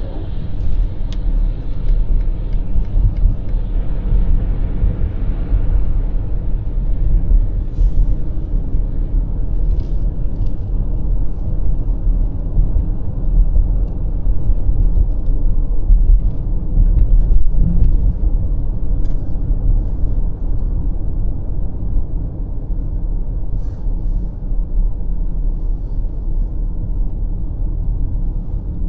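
Steady low road rumble of a BMW X5 M50i cruising on a highway. A hiss of tyre noise fades away about six seconds in.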